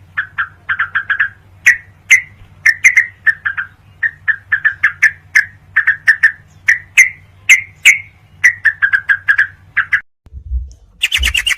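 Yellow-vented bulbul (cucak trucuk) song on a tutor recording: runs of short, quick chirping notes in clusters, over a low steady hum. About ten seconds in it cuts off, and a higher, faster chattering starts near the end.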